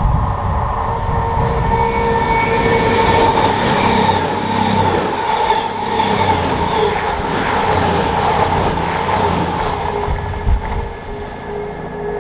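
A train passing close by at speed: a steady rush of wheel and rail noise with a steady whine, easing off near the end.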